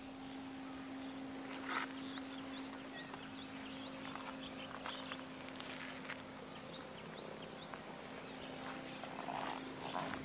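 Quiet outdoor ambience picked up by an action camera's built-in microphone: a bird gives a run of short rising chirps, about two a second, twice, over a steady low electrical hum.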